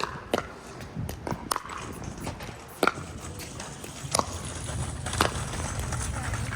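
Sharp knocks at irregular intervals, about six in all, over a low rumble of wind on the microphone that grows stronger about four seconds in.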